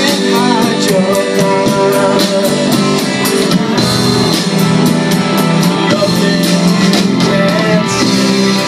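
Live rock band playing, guitars over a drum kit keeping a steady beat, with some singing.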